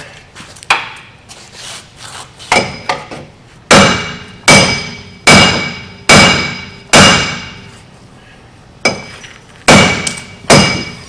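Hammer blows on a seized wheel hub assembly, each strike ringing like struck metal: a few lighter hits, then five hard blows about a second apart, a pause, and more hard blows near the end. The hub is just beginning to move.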